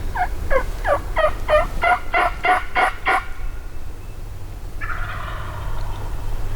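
Hen turkey yelps blown on a hunter's turkey call: a run of about ten notes, each falling in pitch, about three a second and getting louder. A softer, raspy sound follows near the end.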